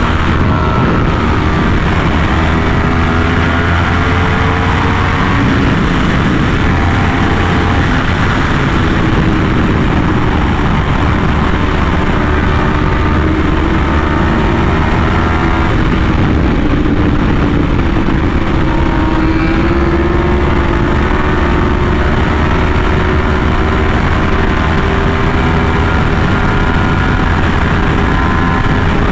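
Yamaha R1M's crossplane inline-four running through an SC Project exhaust while the motorcycle is ridden, its engine note rising and falling gradually with the throttle, over a steady rushing noise.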